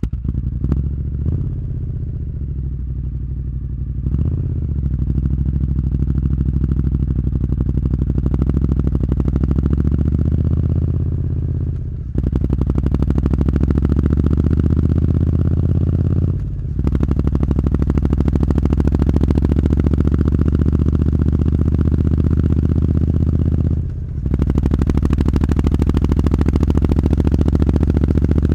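Triumph Street Scrambler's 900 cc parallel-twin engine with Zard aftermarket exhaust, starting up and idling. It is then brought up to steadily rising revs and held there, with brief drops in revs three times.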